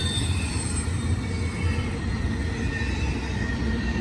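Eastbound BNSF intermodal (Z) train rolling past, a steady rumble of wheels on rail with faint high steady tones above it.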